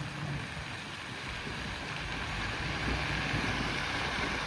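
Lorry engine running as the loaded grain lorry pulls away, with a steady rush of wind or road noise over a low engine hum that builds slightly.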